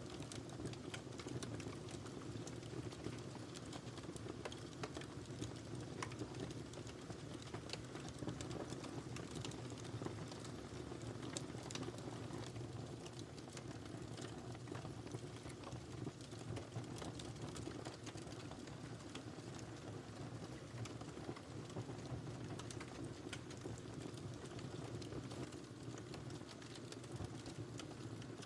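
Wood fire burning in a fireplace: a steady low rumble of flames with frequent, irregular sharp crackles and pops from the burning firewood.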